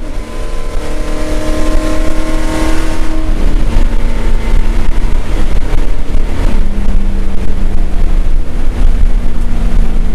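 Commodore race car's V8 engine heard from inside the cockpit, loud and steady over a heavy low rumble. Its note climbs slightly for the first few seconds, then drops to a lower, rougher note about three seconds in.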